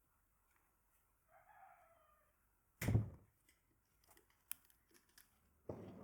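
A rooster crows faintly about a second in. Then comes a heavy thump, the loudest sound, a few light clicks and knocks, and another thump near the end.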